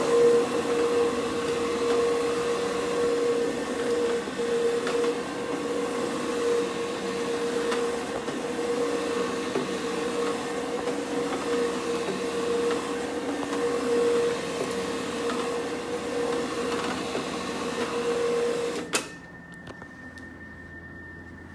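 Counter-rotating brush (CRB) carpet scrubbing machine running steadily with a constant motor hum as it scrubs the carpet; it shuts off suddenly near the end.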